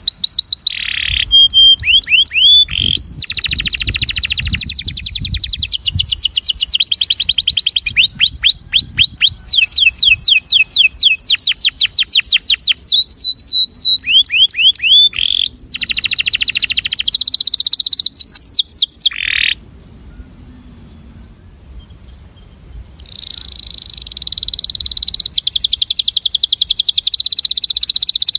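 Male canary singing its courtship song: long, fast trills of quickly repeated sweeping notes, one phrase after another, with a pause of about three seconds a little past the middle.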